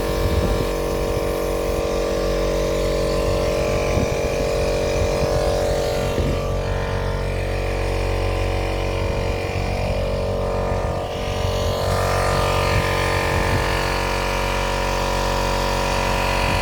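A motor running steadily, with a few light knocks.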